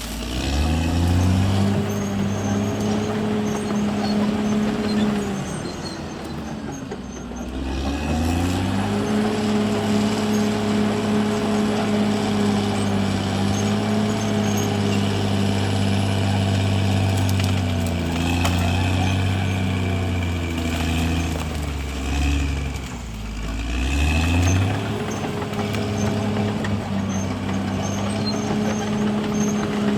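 CAT D6R XL bulldozer's diesel engine running under load. Its revs drop and climb back three times: right at the start, about seven seconds in, and about twenty-three seconds in.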